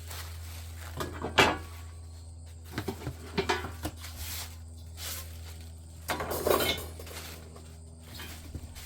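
Metal smoker parts clinking and knocking as they are handled and lifted out of the packing box, with one louder knock about a second and a half in and a longer scuffling clatter around six and a half seconds.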